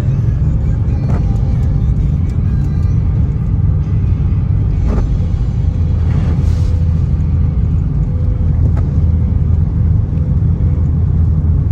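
Car driving on a wet road: a steady, heavy low rumble of engine and tyres, with a few brief knocks and a short rushing hiss about six and a half seconds in.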